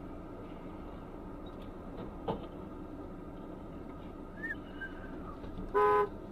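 A steady low rumble with a few faint chirps, and a short, loud, single-pitched beep near the end.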